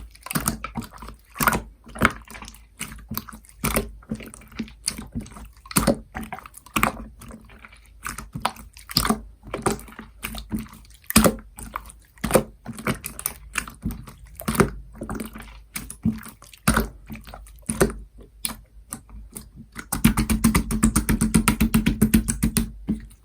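Slime being squished and pressed by hand, making irregular wet clicks and pops. Near the end it breaks into a fast, dense run of small pops for about three seconds.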